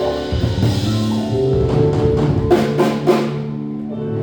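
A live band plays with drum kit and sustained pitched notes, with a short run of drum hits in the middle. It reads as the closing phrase of a song.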